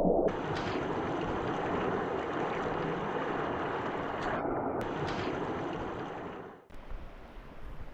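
Deschutes River water rushing past in a steady, even wash. It stops suddenly near the end, giving way to quieter outdoor noise.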